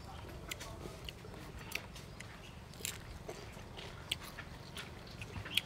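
A person chewing crispy fried fish with its scales on, giving irregular sharp crunches.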